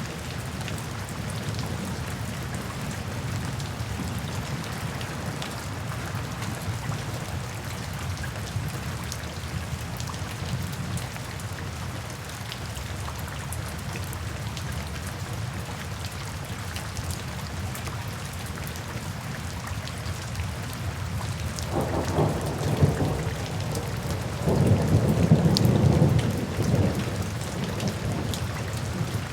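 Steady heavy rain falling, with a roll of thunder rumbling in about 22 seconds in and peaking a few seconds later before fading back into the rain.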